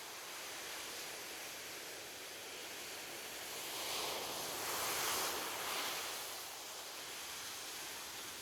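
Ocean surf: a steady wash of waves, with one wave swelling louder and breaking about halfway through, then falling back.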